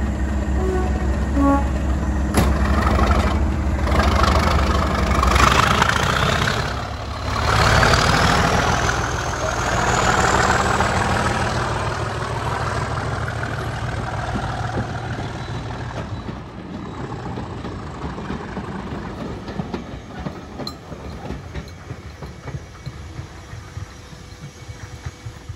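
Diesel locomotive hauling a train of coaches away from a station: a steady low engine note, a rising whine about a third of the way in, then the rattle of the coaches on the track, fading as the train draws away.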